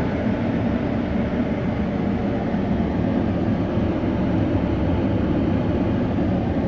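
Truck driving, a steady rumble of road and engine noise.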